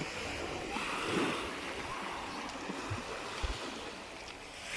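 Sea surf washing in: a steady rushing noise that swells briefly about a second in.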